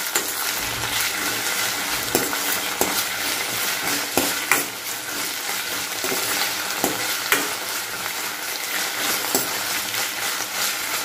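Mint leaves and green chillies sizzling in hot oil in a stainless steel kadai while a steel spoon stirs them, clinking and scraping against the pan every second or so over a steady hiss.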